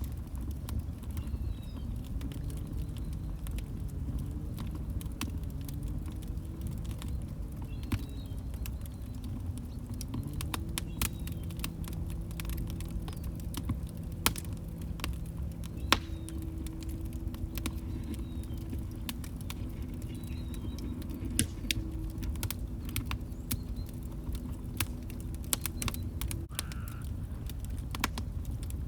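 Wood log fire crackling, with many irregular sharp pops and snaps over a low rumble. A faint low hum wavers in pitch, then holds steady and stops near the end.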